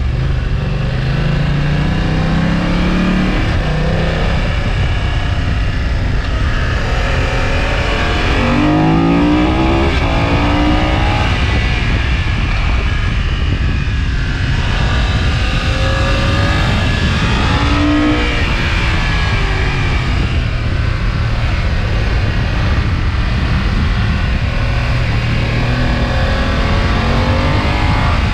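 2020 BMW F900XR's 895 cc parallel-twin engine and exhaust under way, the pitch rising repeatedly as the bike accelerates and easing off between pulls. A steady rush of wind and road noise lies under it.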